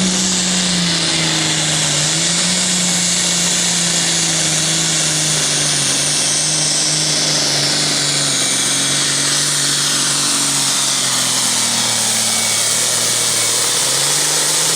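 Super Farm class pulling tractor's diesel engine at full throttle through a pull, with a loud high whine over a deep engine note. The engine pitch sinks in the last few seconds as it bogs under the sled's load.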